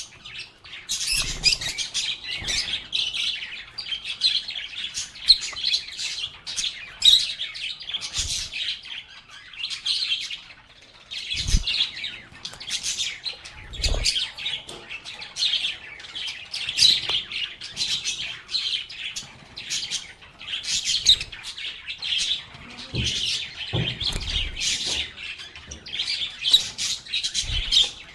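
A flock of pet lovebirds chirping and chattering without pause, a dense stream of short, high chirps, with a few soft low thumps.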